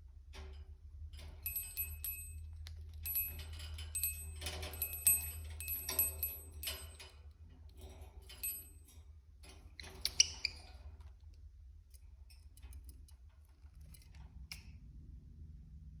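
Budgie bathing: irregular bursts of small splashes, flicks and patter of water from its wings, busiest in the first ten seconds and thinning out after. A few short high-pitched tones come during the busiest part.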